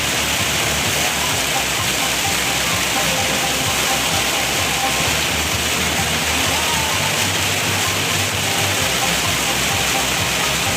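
Very heavy rain beating steadily on a moving car's roof and windshield, a dense unbroken hiss heard from inside the car.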